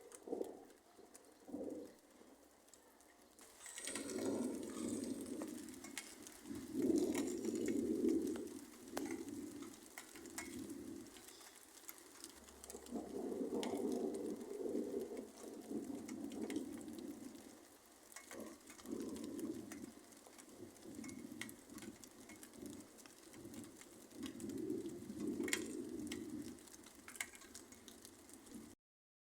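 Doves cooing, in repeated phrases of a second or two each.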